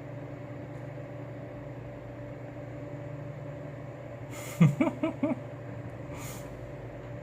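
A steady low machine hum, with four short, quick pitched calls about four and a half seconds in.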